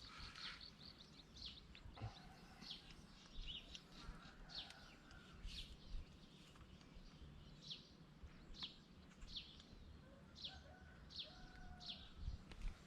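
Faint outdoor quiet with a bird calling over and over: short, high chirps that fall in pitch, about one a second. A few longer, lower, steady whistled notes come in between.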